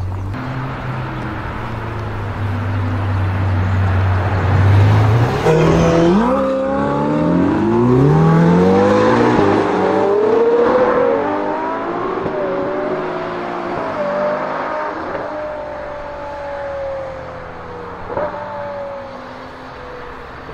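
Twin-turbo V8 supercar engines: a low steady rumble for the first few seconds, then hard acceleration with the pitch climbing and dropping through several gear changes, settling into a steady, slowly falling drone as the car pulls away, with a brief sharp blip near the end.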